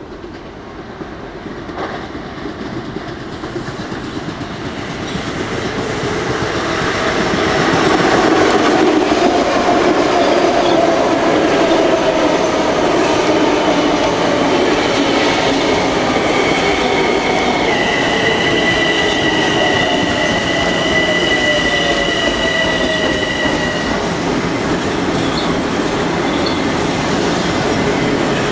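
Long Island Rail Road M7 electric multiple-unit train pulling into the station, growing louder over the first eight seconds as it nears and then running steadily past. From about sixteen seconds in, a steady high-pitched wheel and brake squeal joins a falling motor whine as the train slows to stop.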